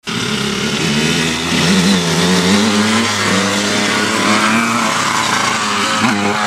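Dirt bike engine running and revving, its pitch rising and falling as the throttle is worked. It cuts in abruptly from silence.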